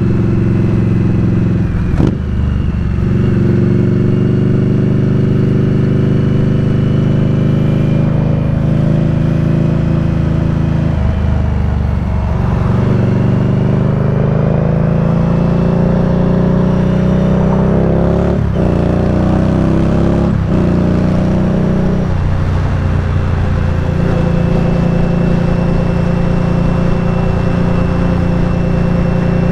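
Indian Scout Bobber's liquid-cooled V-twin running under way, its note climbing as the bike accelerates, with brief breaks that sound like gear changes about 2, 12, 18 and 20 seconds in. From about two-thirds of the way through it holds a steady cruising note.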